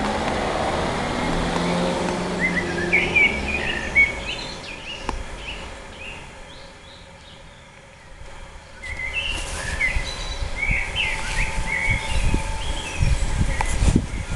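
Small birds chirping in short, quick notes, in two bouts: a few seconds in and again from about nine seconds on. A low rumble runs under the first few seconds and fades out.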